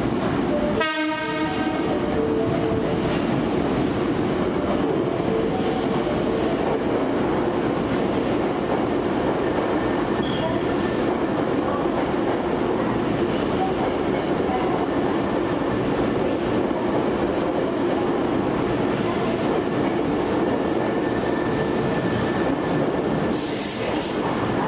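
A Hankyu 3300-series commuter train pulls slowly into an underground station platform, with steady rumbling wheel and running noise echoing in the tunnel. A short burst of hiss comes near the end as the train draws to a stop.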